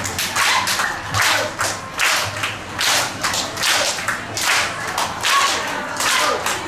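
Steady rhythmic hand clapping, about two to three claps a second, keeping time.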